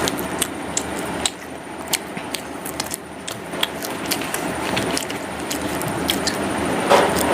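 Close-miked chewing and mouth sounds of eating vada pav (potato fritter in a soft bun): irregular wet smacks and clicks over a steady background hiss.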